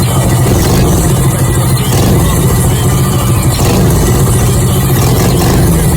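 Minibike's Predator 212cc single-cylinder four-stroke engine running loud and steady, holding about the same speed throughout.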